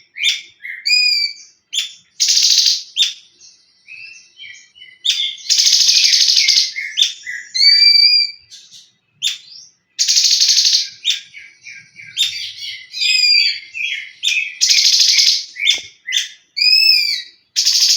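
Cungkok songbird singing its rapid 'tembakan' bursts: loud, harsh, buzzy rattles about a second long, repeated every few seconds, between quick whistled slurred notes and chips.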